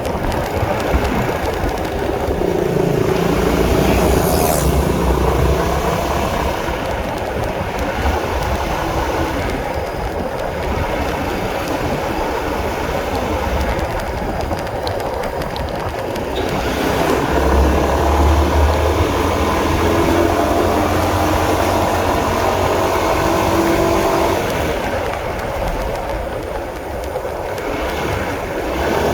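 Honda CB150R motorcycle's single-cylinder engine running while the bike is ridden, its note rising and falling as the rider works the throttle and gears, with noise from the road and wind underneath.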